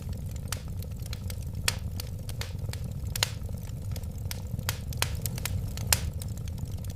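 Wood fire crackling in a fireplace: irregular sharp pops and snaps over a steady low rumble of the flames, with louder pops at about two, three and six seconds in.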